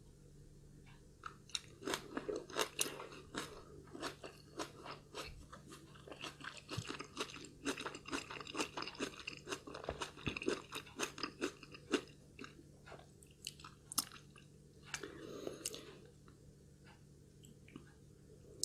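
Close-miked chewing of food, with many crisp, crunchy bites starting about a second in and thinning out near the end.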